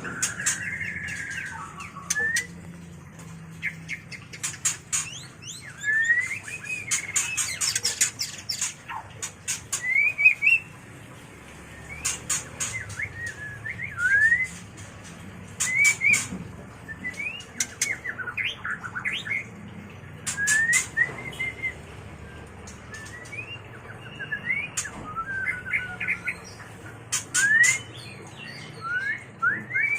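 White-rumped shama in breeding condition singing its mating call: short rising whistled phrases mixed with sharp high clicking notes, coming in bursts every second or two.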